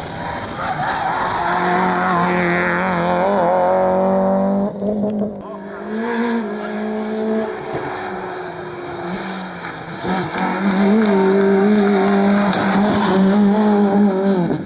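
Rally car engine at high revs, its pitch wavering as the car is driven hard. It eases off for a moment about five seconds in, then pulls strongly again.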